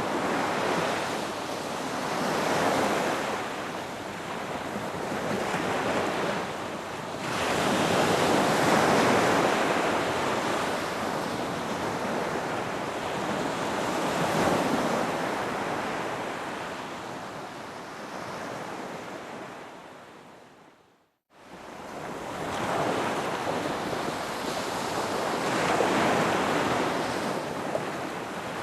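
Ocean waves breaking and washing up a beach, swelling and ebbing every few seconds. About three-quarters of the way through, the sound fades away to a moment of silence and then comes back abruptly.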